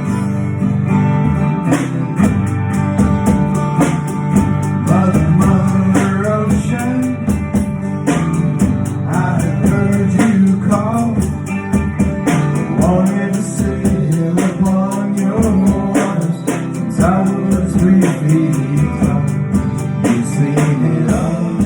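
A band playing the instrumental intro of a country-style song: guitar and drums, with a lead line of bending melody notes over them.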